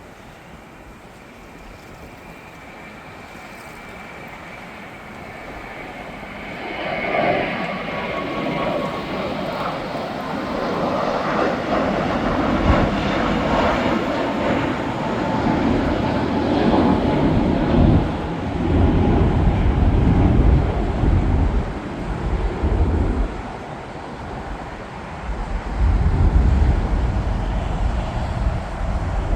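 Jet airliner passing close by. Its engine whine grows louder over the first several seconds, then gives way to a loud, wavering low rumble of jet noise that lasts to the end.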